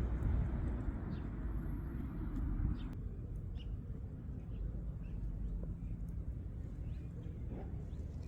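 Outdoor ambience: a steady low rumble with a few faint, short bird chirps. The rumble drops abruptly about three seconds in.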